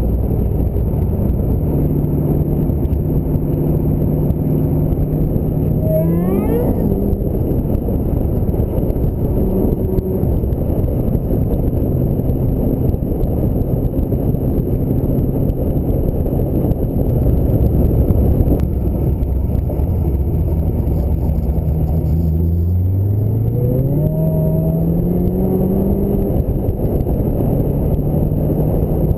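Ford Mustang SVT Cobra's V8 engine running on the move over a steady rumble of road and wind noise. The engine note rises briefly about six seconds in, and again in a longer climb as the car accelerates near the end.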